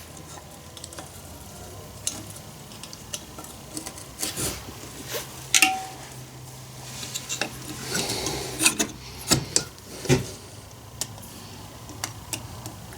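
Small metal parts clicking, tapping and scraping by hand as the cylinder is worked down over the piston and its new rings on a Stihl 041 AV chainsaw, with a faint steady low hum underneath.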